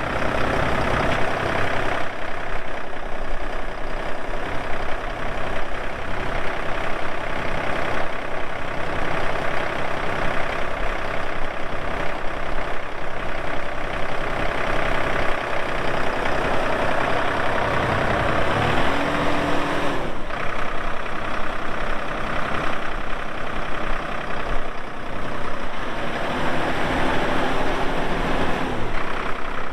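2014 Massey Ferguson 4608 tractor's diesel engine running steadily. Twice, about two thirds of the way through and again near the end, a lower note rises, holds for a couple of seconds and drops back.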